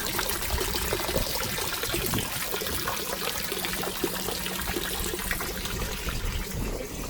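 Water spilling and trickling steadily from the boat's freshwater tank overflow, the sign that the tank is full.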